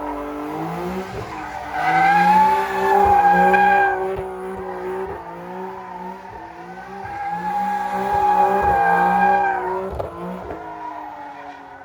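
A car engine held at high revs, its pitch rising and falling, with tires squealing as the car drifts or does a burnout. It swells loudest twice, about two seconds in and again in the second half, with a few sharp cracks along the way.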